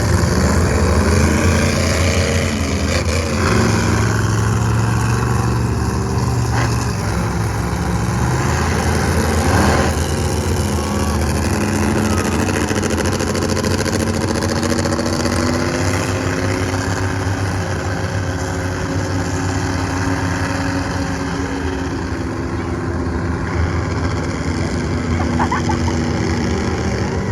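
Monster truck engine running loudly, its pitch rising and falling as it is revved.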